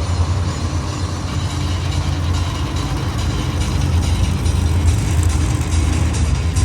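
Monster truck engine running loud and steady, a deep low rumble filling the arena.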